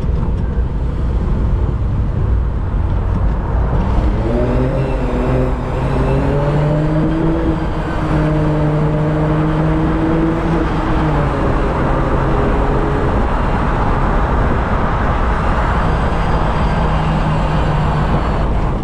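Daihatsu Copen with an HKS sport muffler driving, its exhaust note carried over steady road and wind noise. The engine note climbs about four seconds in, holds steady, fades around twelve seconds and comes back near the end.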